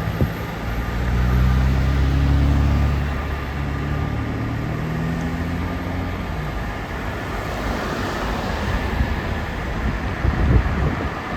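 A low engine hum swells and fades over the first six seconds or so, over a steady outdoor roar. Wind buffets the microphone near the end.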